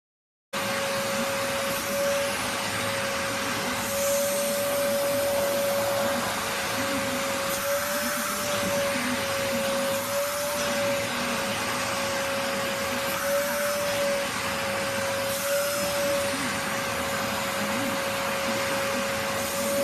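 Vacuum cleaner running on a cat's fur, coming in abruptly about half a second in; its steady motor hum wavers slightly in pitch now and then as the nozzle is pressed against the fur.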